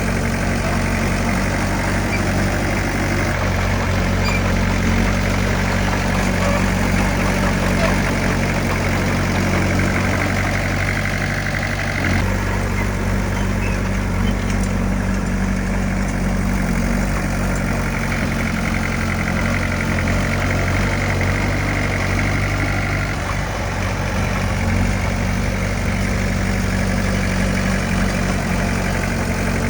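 Heavy diesel engine of earth-moving equipment running steadily, with a small change in its note about twelve seconds in.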